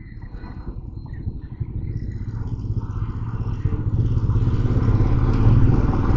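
Motorcycle running and picking up speed, its low engine rumble and road noise growing steadily louder.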